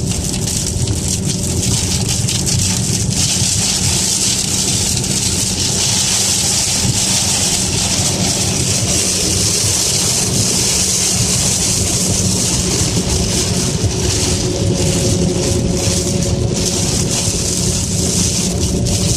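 Heavy rain hitting a moving car, heard from inside the cabin, over steady road and engine noise.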